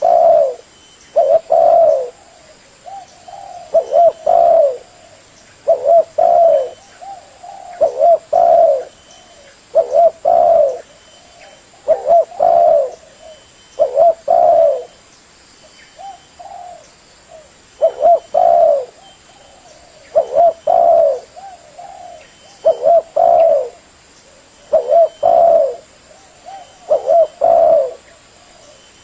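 Spotted dove (tekukur) cooing: groups of two or three low coos, repeated about every two seconds, played as a lure call for trapping.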